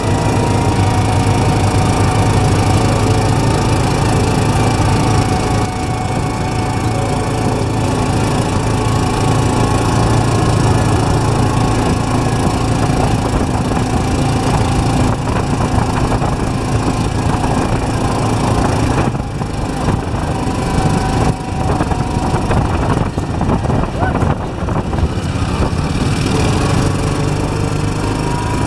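A small engine running steadily and loud, with a short dip in level about two-thirds of the way through.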